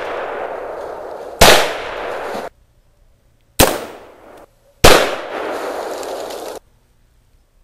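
Sig Sauer M4 semi-automatic rifle fired three times at uneven spacing, about a second and a half in, at three and a half seconds and just under five seconds. Each sharp crack is followed by about a second of echo that cuts off suddenly.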